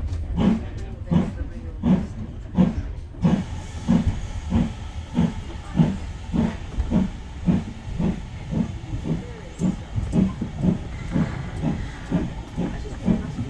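Steam locomotive working along the line, its exhaust chuffing in even beats about one and a half a second, with a hiss of steam joining about three seconds in.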